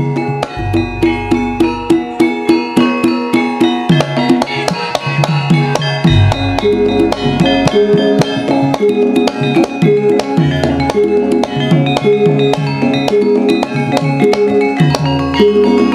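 Javanese gamelan music for Lengger dance, amplified through a sound system: bronze metallophones play a rhythmic struck melody over steady ringing tones, with drum strokes and deep booms coming in several times.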